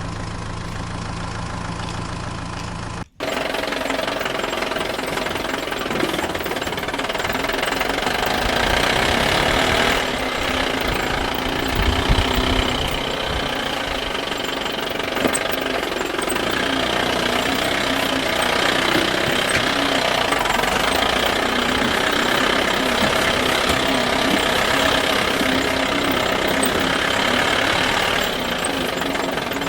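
Steady, rattling engine-like running noise for toy construction vehicles. The sound changes abruptly at a cut about three seconds in.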